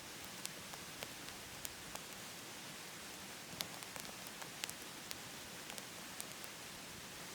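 Wood burning in a wood stove, crackling with irregular sharp pops over a steady hiss.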